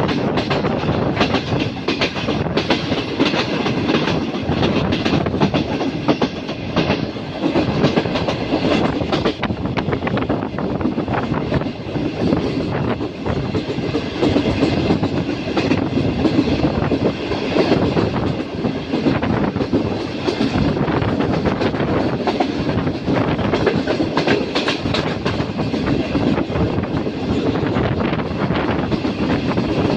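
Karakoram Express passenger train's wheels clattering over the rail joints at slow speed: a steady rolling rumble broken by a continuous run of irregular clicks.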